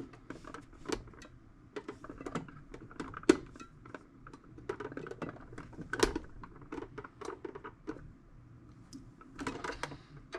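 Knife blade prying and scraping at small stuck covers on the back of a tool box: irregular clicks and scratches, with sharp snaps about three and six seconds in.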